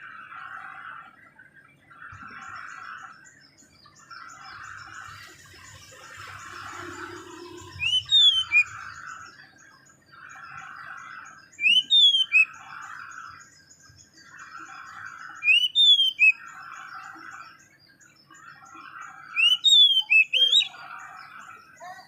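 A bird singing a loud phrase of a few sharp, sliding whistled notes about every four seconds, over a softer rasping call repeated about once a second.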